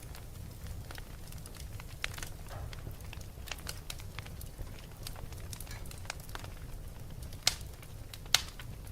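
Fire crackling steadily, with scattered small snaps over a low rumble and two louder pops near the end.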